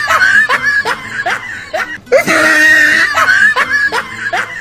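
A high-pitched giggling, chattering sound effect: a quick series of rising squeaks over a held shrill note, the same short clip played twice in a row.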